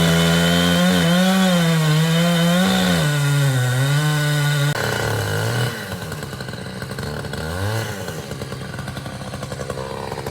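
Chainsaw running under load as it cuts into a large oak, its pitch wavering and sagging. About five seconds in it becomes quieter and lower-pitched and keeps running to the end.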